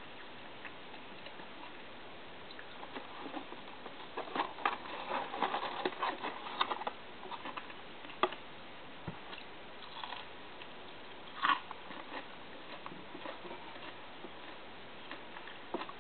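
Faint eating sounds close to the microphone: small clicks and rustles of chewing and handling food, busier about four to seven seconds in, with a sharper click about halfway and another near the three-quarter mark.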